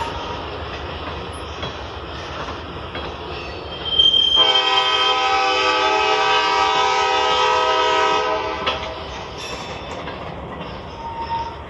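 Freight train rolling past with a diesel locomotive's air horn sounding one long steady blast of about four seconds, starting about four seconds in, over the rumble and clatter of the train.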